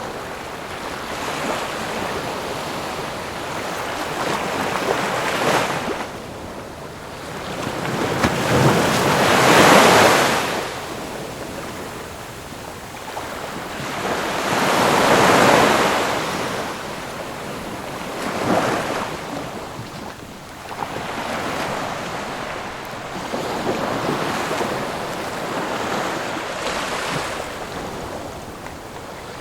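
Ocean waves breaking on a shore. The surf comes in slow swells every few seconds, with the loudest breakers about a third and halfway through.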